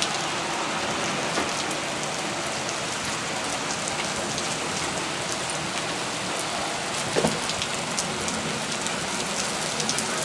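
Heavy rain falling steadily, with many sharp close drop splats scattered through it and a louder splat about seven seconds in.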